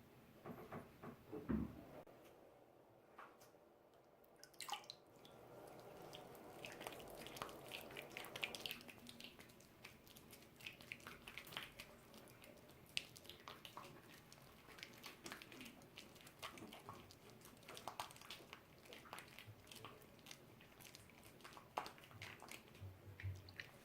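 Faint wet squishing, crackling and dripping as a doll's synthetic hair is washed by hand with shampoo and water.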